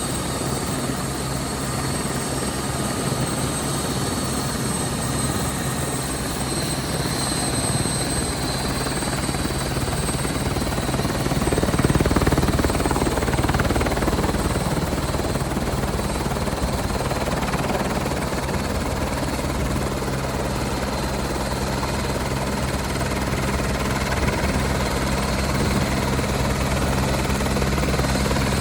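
Helicopter running with a steady rotor beat and a high, even whine above it. It grows a little louder about twelve seconds in, then settles.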